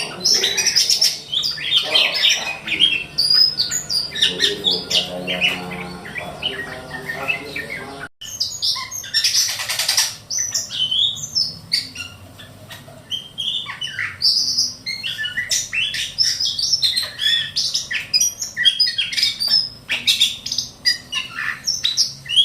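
A small whistling thrush (ciung batu kecil) calling in a rapid, varied stream of high chirps and gliding whistles mixed with harsh squawks. The sound breaks off for an instant about eight seconds in, then resumes with a brief hissing burst.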